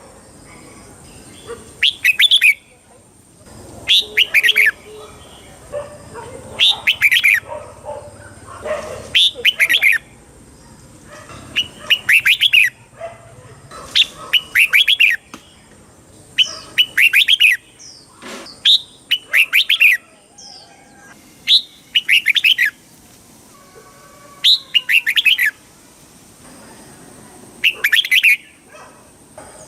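Red-whiskered bulbul singing: short, bright warbled phrases repeated about every two seconds, many given as quick doubled bursts.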